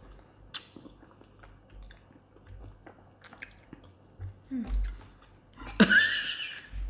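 Eating sounds at a table: chewing and small mouth noises with scattered light clicks of forks on dishes. About six seconds in comes a brief, louder vocal sound.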